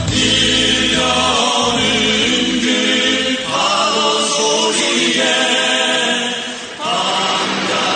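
Music: a song with a group of voices singing long held, choir-like notes. The voices dip briefly about seven seconds in, then come back in.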